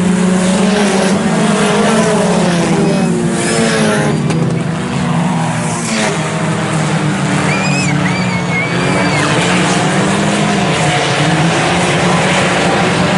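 A pack of IMCA Sport Compact race cars, small four-cylinder engines, running hard on a dirt oval. Several engine notes overlap, their pitches rising and falling as the cars pass. A brief high squeal comes a little past halfway.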